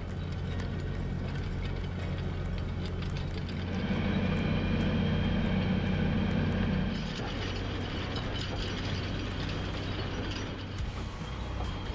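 Tractor engine running steadily, growing louder for a few seconds in the middle.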